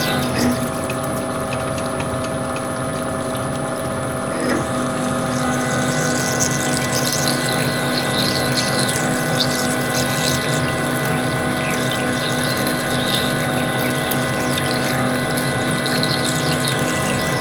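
Metal lathe running steadily with a constant machine hum and hiss, with faint scratchy cutting noises coming and going after the first few seconds.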